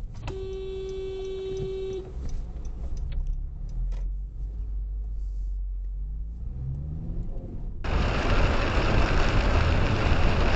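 A car horn sounds once, one steady note held for under two seconds, over the low rumble of a car's engine and road noise. Near the end the sound switches suddenly to loud, steady rushing noise, like wind or tyre noise on the microphone.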